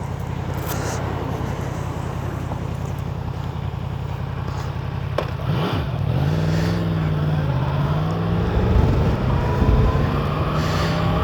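Yamaha MT-10's crossplane inline-four engine idling steadily. About halfway through, its note wavers and then begins to rise slowly.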